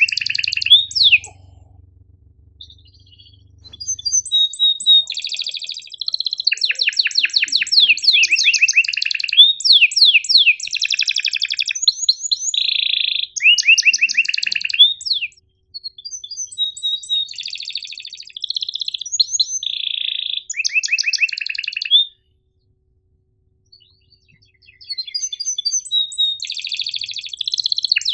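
Domestic canary singing in long phrases of rapid chirps and rolling trills, with two short pauses in the song.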